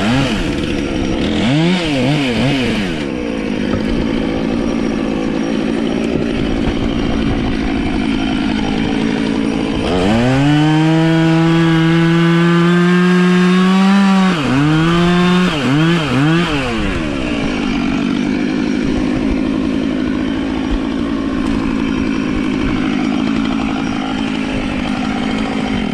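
Two-stroke chainsaw running in cuts, revved up and down. About ten seconds in it is held at full throttle for some four seconds, its pitch creeping up, then blipped twice before settling back to a steadier run.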